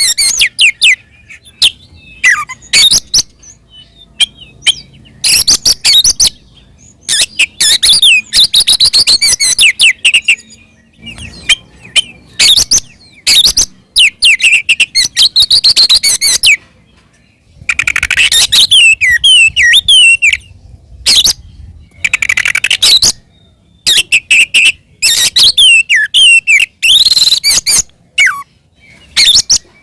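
Oriental magpie-robin (kacer) singing loud, rapid, varied phrases of sharp whistles and trills, with short pauses between bursts. This is its aggressive, continuous fighting song, used as a lure to provoke other magpie-robins into singing.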